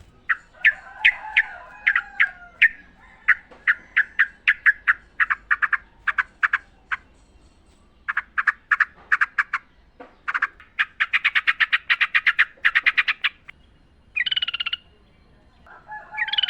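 Yellow-vented bulbul song: runs of sharp, quick chattering notes broken by short pauses, a dense rapid run about eleven seconds in, then a short bubbly whistled phrase near the end.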